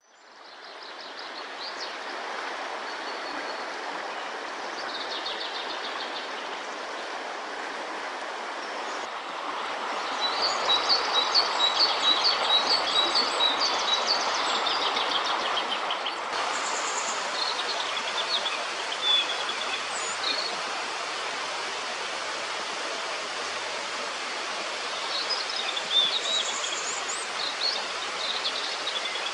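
River water rushing steadily, with songbirds singing and calling over it, including a quick run of repeated high chirps about ten seconds in.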